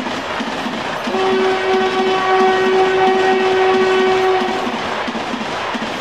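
Indian Railways express coaches passing close by at speed, wheels clattering in a steady rhythm over the rails. About a second in, a train horn sounds one long steady note lasting about three and a half seconds.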